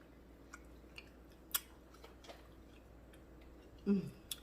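Quiet eating sounds while chewing steak: a few sharp, scattered mouth clicks and smacks, the loudest about a second and a half in, and a brief hum-like voice sound near the end.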